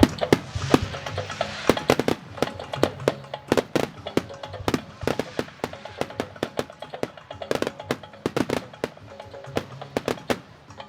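Fireworks going off in rapid, irregular succession, with sharp bangs and crackles, over music played for the show.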